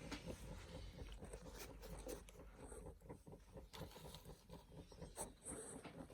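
Near silence: quiet indoor room tone with faint scattered clicks and light scraping.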